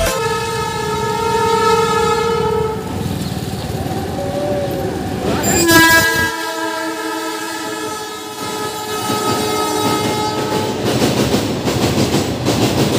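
Electric locomotive horn sounding two long blasts, the first for about three seconds and the second starting about six seconds in and holding for about five. Underneath runs the continuous rumble and clickety-clack of a freight train crossing a steel truss bridge, with the bridge itself rattling. The clatter is heaviest near the end.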